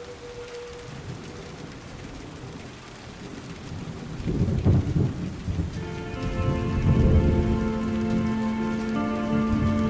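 Steady rain with two low rumbles of thunder, one about four seconds in and a stronger one about seven seconds in. One piece of music fades out at the start, and another begins about six seconds in.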